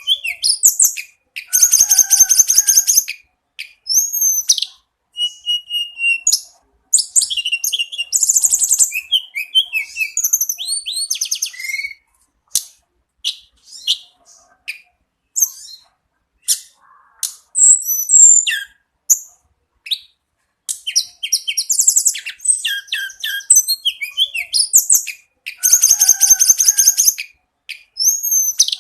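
A tledekan gunung songbird singing a varied song: short whistled notes and slurred phrases mixed with loud, fast, high rattling trills of a second or two each, with a sparser stretch of single notes near the middle.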